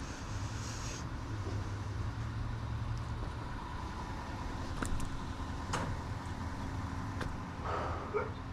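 Vehicle engine running steadily, with a few sharp clicks about five, six and seven seconds in.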